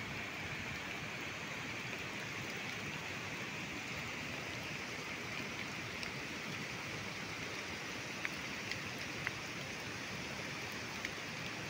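Steady hiss of rain falling on wet forest, with a few faint ticks of drops near the end.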